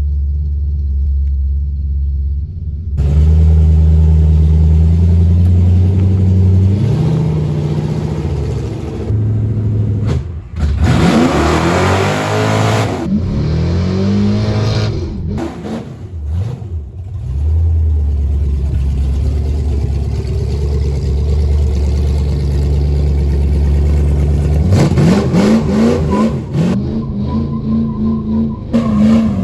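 Car engine working hard under load while towing a heavy, engineless pickup truck: long steady pulls broken by stretches of revving, where the pitch rises and falls several times.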